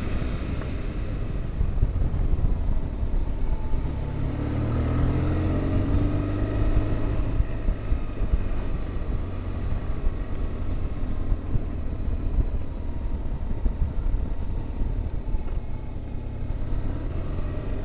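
BMW R1200GS Adventure motorcycle under way: its boxer-twin engine running under a heavy rush of wind noise. The engine note rises about four seconds in as it accelerates.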